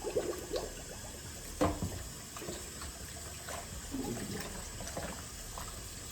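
Kitchen tap running into the sink as raw chicken wings are rinsed under it, with splashing and small knocks. One sharper knock comes about a second and a half in.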